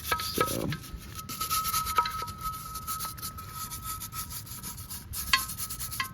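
Hand scrubbing strokes on the inner barrel of an alloy wheel, rubbing and scraping with a couple of sharper clicks, over a faint steady high-pitched tone.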